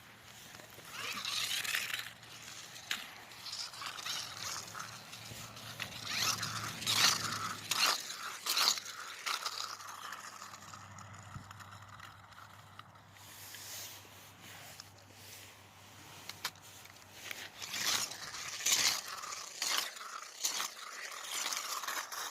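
Toy monster trucks being handled and run on a plastic ramp: irregular scrapes, rustles and sharp clicks in clusters, over a faint low hum.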